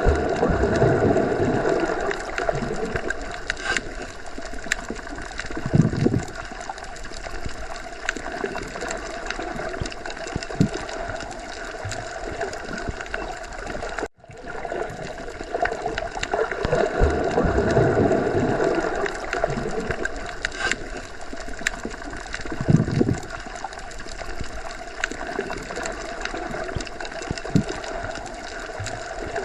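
Underwater ocean ambience: a continuous muffled watery rush with gurgling swells and occasional pops. It is a loop that cuts out for an instant about halfway through and then starts over.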